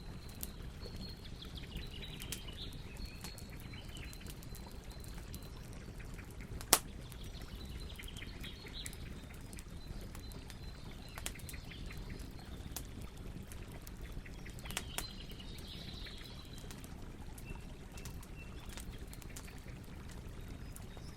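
Campfire burning with a low steady rumble and scattered crackles, with one sharp pop a little under seven seconds in. Birds chirp now and then in the background.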